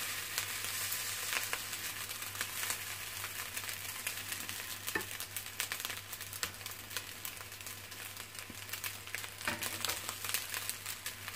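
Fried rice sizzling in a hot pan, with the scrape and click of a spatula stirring and scooping it.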